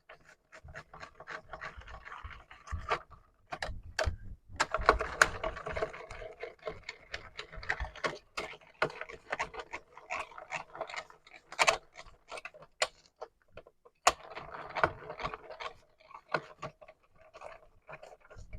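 Irregular scrubbing and rubbing on the Commodore 64 keyboard's circuit board, with many small clicks and taps, as the board is cleaned with isopropyl alcohol.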